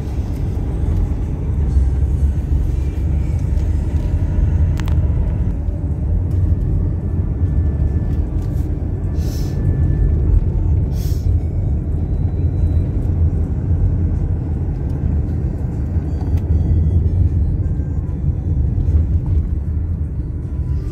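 Car being driven on a country road: a steady low rumble of tyre and engine noise. There are two short hissing sounds about halfway through.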